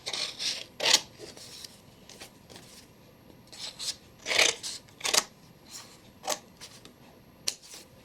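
Sheets of coloured craft paper being handled and cut with scissors: a few irregular, crisp snips and paper rustles.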